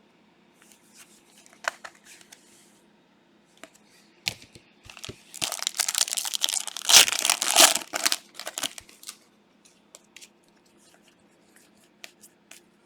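Plastic wrapper of a trading card pack being torn open and crumpled: one loud crinkly rip lasting about three seconds, about midway, with scattered light clicks of handling before and after.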